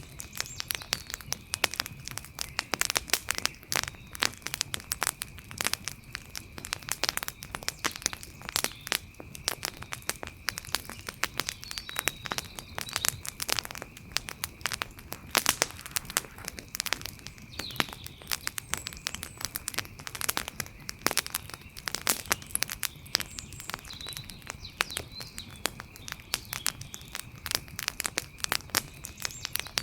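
Wood fire crackling, with dense irregular pops and snaps. A faint steady high tone runs underneath, and a few short faint chirps come about twelve, seventeen and twenty-four seconds in.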